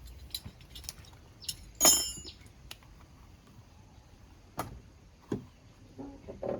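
Scattered light clicks and knocks of small hard objects, with one sharp metallic clink about two seconds in that rings briefly, and two duller knocks later on.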